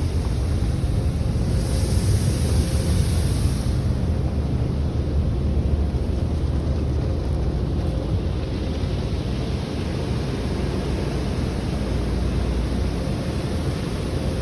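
Automatic car wash running: a steady low rumble of machinery and water, with a brighter hiss of spray for about two seconds near the start.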